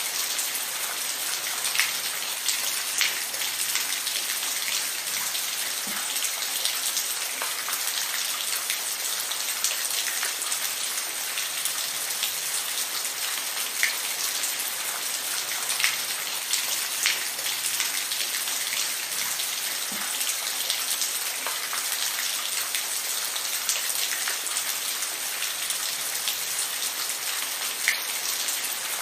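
Steady rain falling, an even hiss with frequent close, sharp drops striking a surface.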